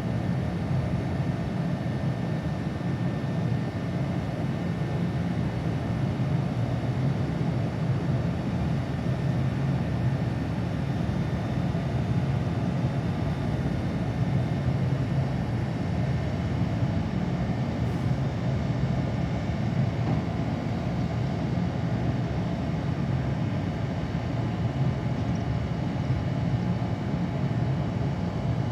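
Train running steadily: a low rumble with faint steady whining tones above it.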